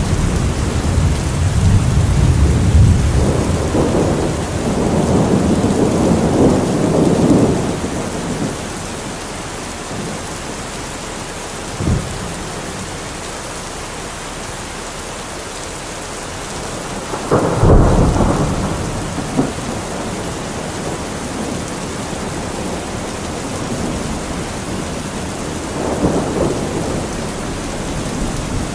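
Heavy rain drumming steadily on a metal roof, with thunder: long rolling rumbles over the first eight seconds, a short sharp crack about twelve seconds in, a loud clap around eighteen seconds, and a weaker rumble near the end.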